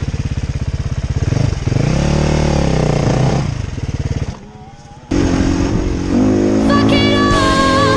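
Enduro dirt bike engine running with a fast pulsing beat, revving up and back down about two seconds in. It cuts off a little after four seconds, and music with held, wavering notes comes in over the last few seconds.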